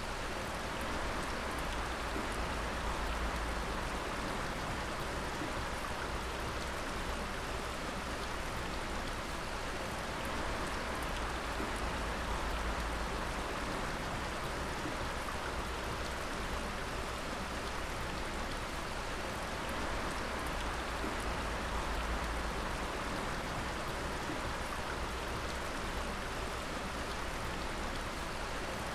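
Dripping water: many drops pattering steadily like light rain, with faint sharper ticks of single drops.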